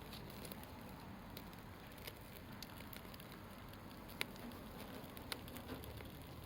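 Wood campfire crackling faintly, with scattered sharp pops from the burning wood, the loudest about four seconds in.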